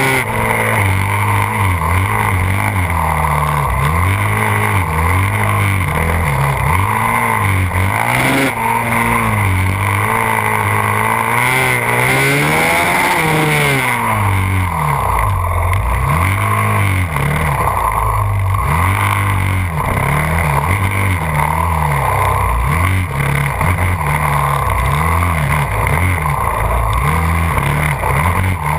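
Yamaha WR450F's single-cylinder four-stroke engine, heard onboard, revving up and down over and over as the bike accelerates and slows between tight turns, with one longer climb and fall in pitch about twelve seconds in.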